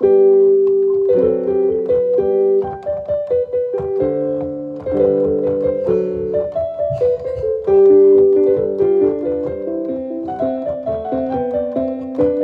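Background piano music: chords and a melody of held notes, starting suddenly.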